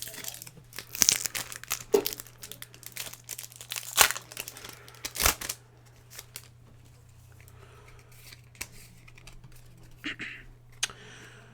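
Foil booster-pack wrapper being torn open and crinkled, a run of sharp crackling and tearing for about five seconds, then much quieter, with only a few light clicks of handling.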